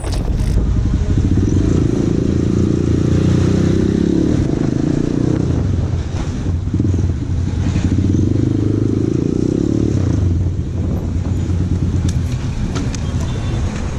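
Motorcycle engine running under way, its pitch swelling and easing off twice as the bike accelerates and backs off.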